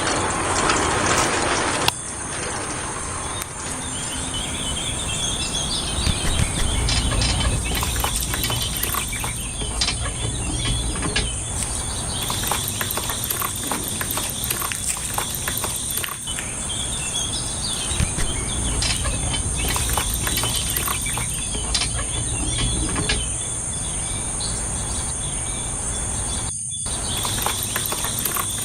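Insects trilling in one steady high note, with scattered small clicks and knocks and a low rumble underneath.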